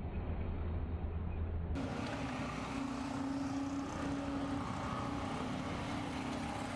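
Steady machine running: a low hum that gives way, at an abrupt cut about two seconds in, to a different steady running sound with a held mid-pitched tone over broad noise.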